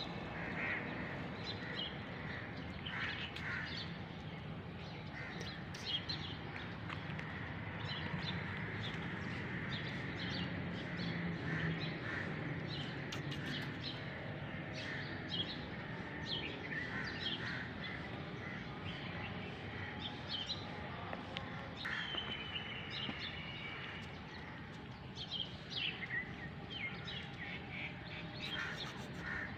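Birds chirping and calling: many short, high chirps scattered throughout, over a steady low background noise.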